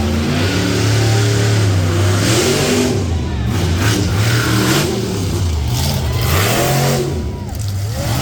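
Monster truck engine revving hard and pulling through a timed race run, its pitch rising and falling several times.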